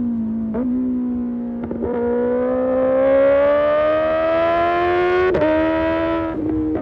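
Kawasaki ZX-6R's inline-four engine through an Arrow Pro Race exhaust under way, holding fairly steady with a couple of brief breaks in the tone, then climbing steadily in revs for about three seconds. About five seconds in the pitch drops suddenly, as on an upshift, and changes again near the end.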